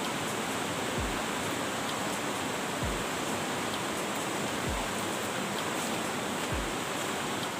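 Fast-flowing river water rushing steadily, with a soft deep thump about every two seconds underneath.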